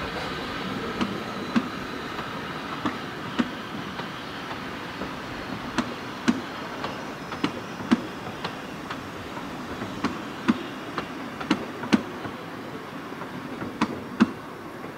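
Narrow-gauge railway carriages rolling past, their wheels clicking irregularly over the rail joints and points while the train's rumble slowly fades as it draws away.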